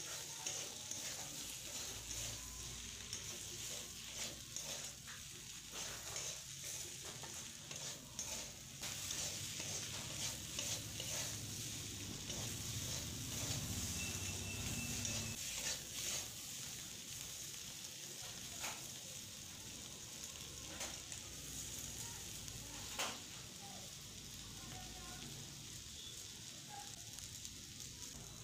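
Pointed gourd, potato and green chilli pieces sizzling in oil in a steel kadai while a metal spatula stirs them, with a steady hiss and occasional short scrapes and taps of the spatula against the pan.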